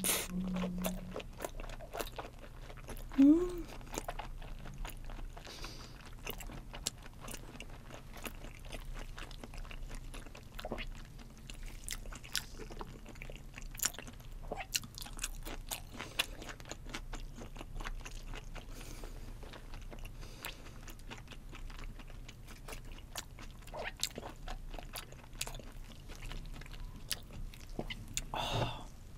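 Close-miked chewing of a mouthful of raw salmon and olive flounder sashimi: a steady run of small wet mouth clicks and smacks. About three seconds in, a brief rising hum from the eater.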